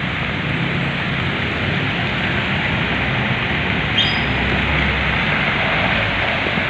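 Heavy rain hissing steadily on a wet road, with a coach bus's engine rumbling low as it drives slowly past. A brief high squeak about four seconds in.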